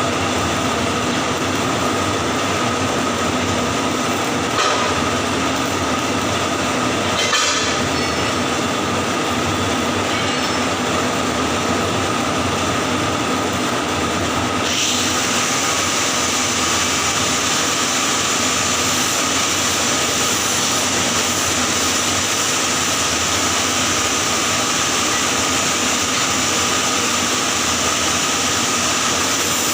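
Electric arc welding on pipe: a steady crackling, frying hiss from the arc. Two brief louder crackles come about five and seven seconds in, and the hiss turns brighter about halfway through.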